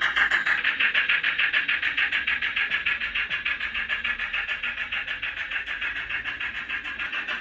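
Sound-fitted 00 gauge model of a GWR 8750 class pannier tank locomotive running, its speaker giving rapid, even steam chuffs that fade a little and then grow louder again near the end.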